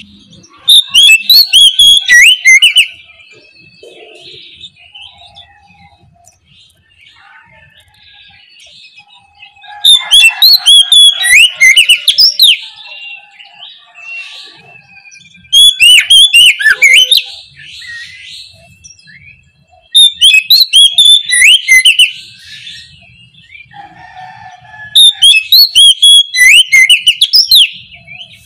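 Oriental magpie-robin (kacer) singing in loud, fast bursts of rapid sweeping notes, each about two to three seconds long, five times over, with faint scattered chirps between the bursts.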